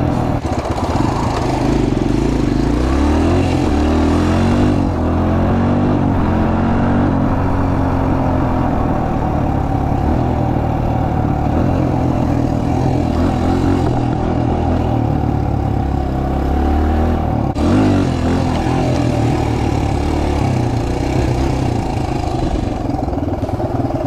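Suzuki DR-Z125L's small four-stroke single-cylinder engine being ridden, its pitch rising and falling as the throttle opens and closes, with a brief dip about 17 seconds in.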